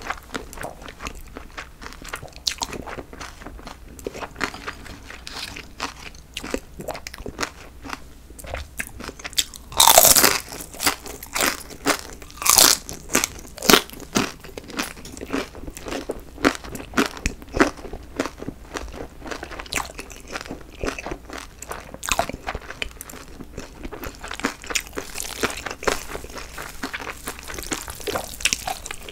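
Close-miked chewing of a mouthful of jjolmyeon, chewy Korean spicy cold noodles with crunchy vegetables: a steady run of wet crunches and bites, loudest about ten to fourteen seconds in.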